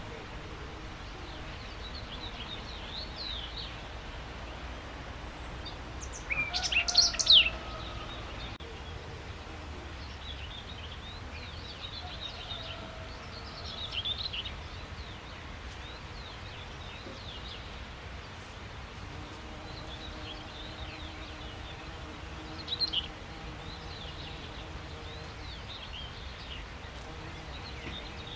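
Several wild birds chirping and trilling over a steady low background hum of outdoor noise. One louder, closer burst of quick calls comes about six to seven seconds in, with smaller ones about halfway through and near the end.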